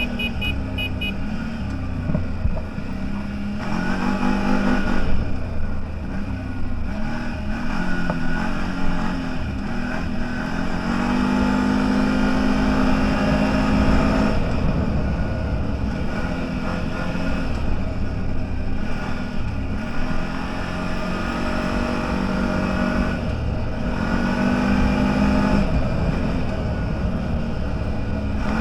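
Off-road vehicle engine running under load, its pitch rising, holding and dropping again several times as it accelerates and eases off, over a steady low rumble.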